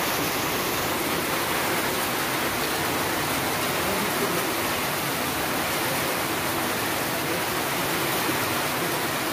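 Heavy rain falling steadily on a wet road, an even hiss with no breaks.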